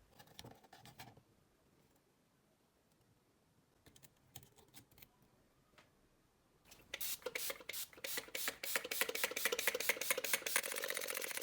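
Rapid mechanical clicking. A few scattered clicks and handling knocks come first, then from about seven seconds in a fast train of sharp clicks that speeds up and grows louder.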